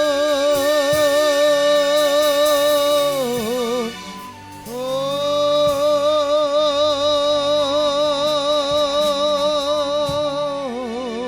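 A woman singing two long held notes with a wide, even vibrato, the first dropping in pitch and breaking off about three and a half seconds in, the second sliding up and holding before falling away near the end, over a soft sustained backing.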